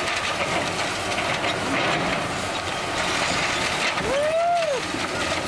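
Heavy demolition machinery running steadily, with a short squeal that rises and falls in pitch about four seconds in.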